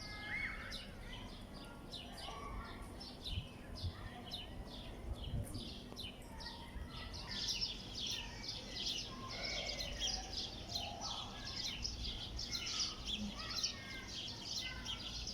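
Many small birds chirping in quick, overlapping calls, thickening into a dense chatter about halfway through, over a steady low background rumble.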